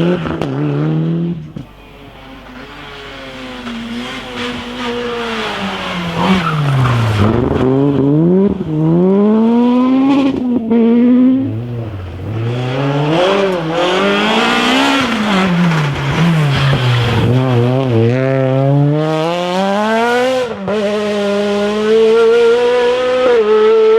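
Rally car engine revving hard, its pitch climbing and dropping again and again through gear changes and braking. After a dip about a second and a half in, it grows louder as the car comes closer. Near the end the revs are held steady and high.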